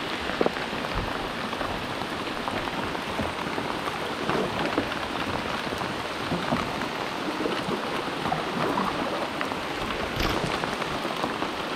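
Steady rain falling, a dense patter of drops ticking close to the microphone, with a couple of louder knocks about half a second in and about ten seconds in.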